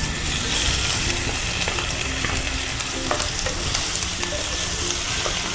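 Grated garlic sizzling in hot oil in a nonstick frying pan, stirred with a wooden spatula that scrapes and lightly taps against the pan.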